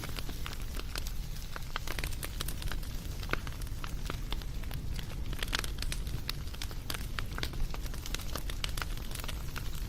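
Wood fire burning, with a steady low rumble and frequent irregular crackles and pops.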